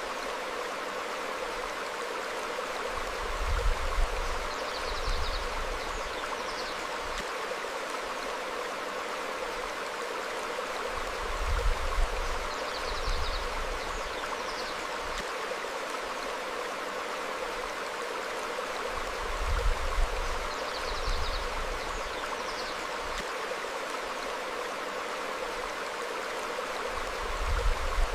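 Stream flowing over rocks, a steady rush of water, with faint bird chirps now and then. A low rumble swells about every eight seconds, the loudest thing in the mix.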